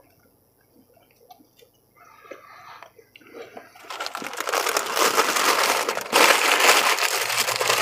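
Faint crunching as a rolled chicken taco is chewed, starting about two seconds in. From about halfway a loud, steady rustling noise takes over.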